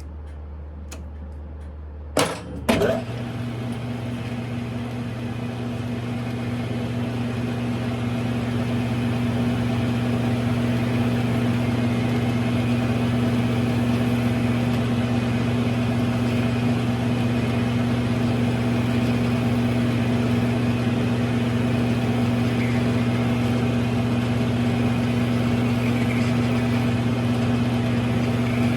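Smithy lathe clacked on about two seconds in, then its electric motor and spindle gearing run with a steady hum, building in loudness over the next several seconds before holding steady.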